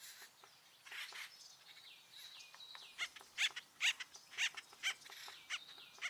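Acorn woodpeckers calling: a string of short, sharp, high calls and quick falling notes, coming louder and faster from about three seconds in.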